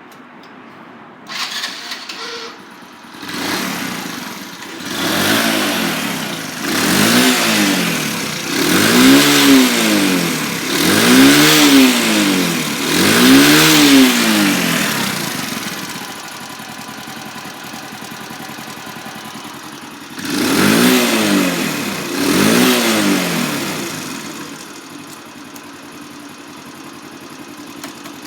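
1987 Honda Super Cub 90 Custom's small single-cylinder four-stroke engine starting up. It is revved up and down five or six times, idles, is revved twice more, then settles to a steady idle.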